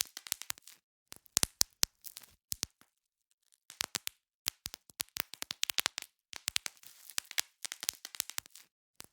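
Bubble wrap being popped: irregular clusters of sharp pops and crackles with short gaps between, and a pause of about half a second a little after the third second.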